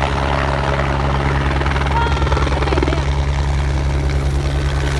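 Helicopter in flight, its rotor beating steadily.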